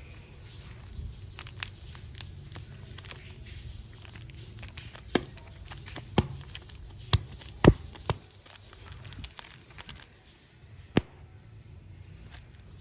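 Hands handling clay packaging: plastic crinkling and rustling with a string of sharp clicks and snaps. The loudest cluster comes in the middle, and one lone click comes near the end.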